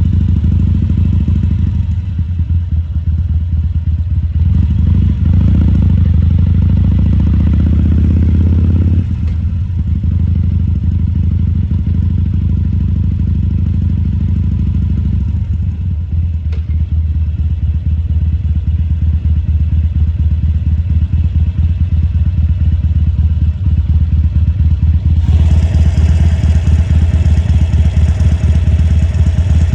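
Harley-Davidson Sportster 1200 Custom's air-cooled V-twin running at low speed, with its pulsing exhaust note shifting a few times as the throttle is opened and closed. A hiss joins the engine sound near the end.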